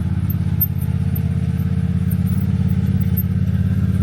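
An engine running steadily close by, with an even, fast pulse.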